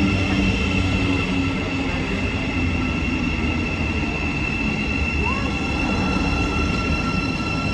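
A train running, with a steady high-pitched whine over a continuous low rumble.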